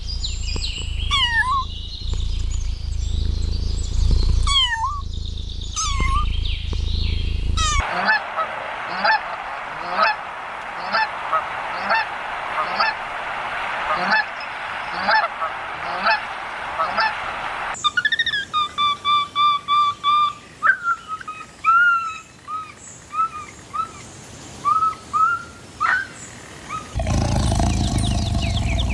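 Birds calling in several spliced clips: short pitched calls over a low rumble, then about one call a second over a steady hiss, then quick runs of calls. A different, louder sound begins near the end.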